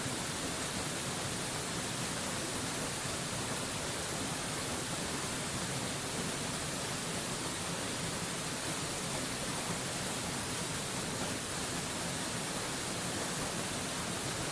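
Steady rushing of a mountain waterfall: an even, unbroken hiss that does not change.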